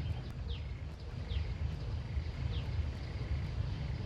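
Outdoor ambience: a steady low rumble, with a bird giving short high chirps that fall in pitch, repeating about once a second.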